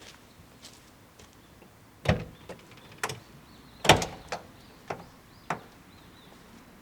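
A string of about six sharp knocks and clunks, the loudest a heavy thud about four seconds in.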